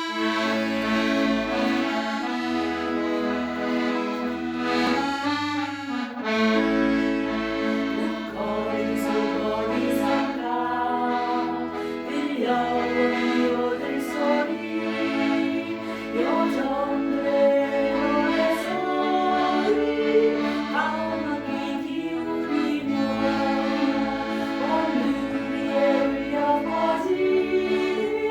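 Accordion music: a melody played over sustained chords and a changing bass line.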